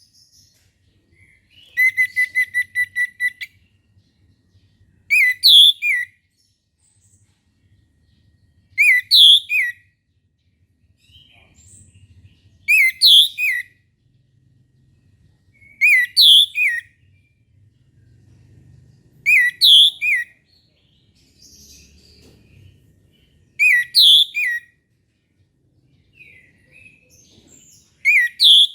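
Orange-headed thrush singing: a quick run of about eight short notes near the start, then short whistled phrases of a few sweeping notes, repeated every three to four seconds. This is the loud, clear phrase-by-phrase song that keepers call ngeplong.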